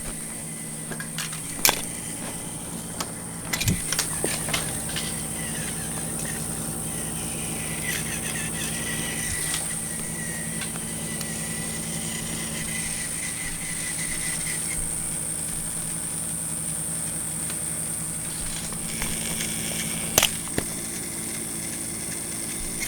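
Battery-powered TOMY plastic toy train running along its track: a steady electric motor whine and hum, with a few sharp clicks.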